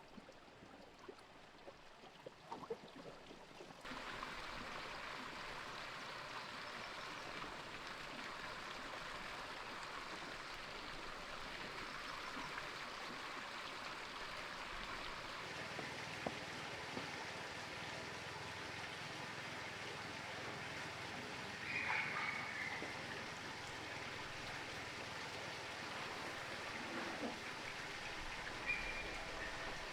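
Steady rush of running water, which sets in suddenly about four seconds in after a few light knocks.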